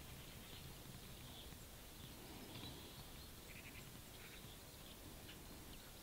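Near-silent ambience with a few faint, short bird chirps scattered through it.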